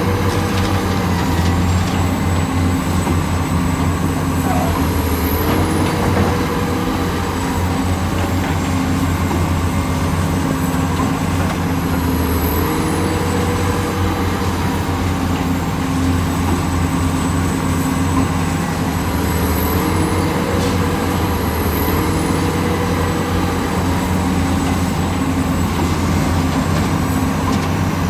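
Heavy diesel engine of an excavator running steadily under load. Its pitch steps up and settles back about every seven seconds.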